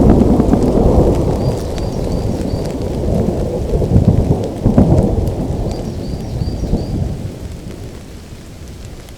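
Rolling thunder rumbling over steady rain, swelling again about four to five seconds in and then dying away, leaving the rain. Faint short high chirps recur in the background.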